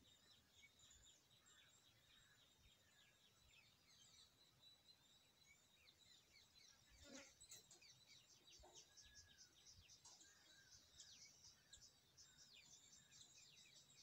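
Near silence: faint outdoor ambience with small birds chirping quickly in the distance, and one soft click about seven seconds in.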